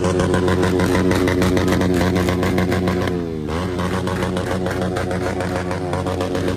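Motorcycle engine running at high revs, held steady, with a quick drop in revs and pick-up again about three seconds in.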